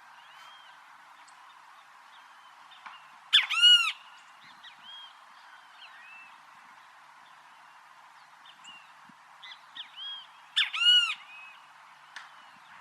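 Great kiskadee calling twice, loud and harsh, the calls about seven seconds apart, each a short note run into a longer arched one. Softer chirps come in between over a steady background hiss.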